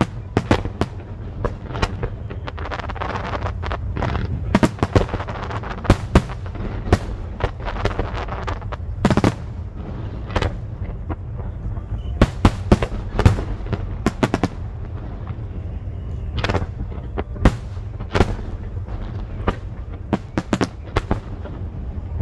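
Aerial fireworks bursting in quick irregular succession, sharp bangs and crackles over a steady low rumble. Some bursts come in rapid clusters and some stand alone.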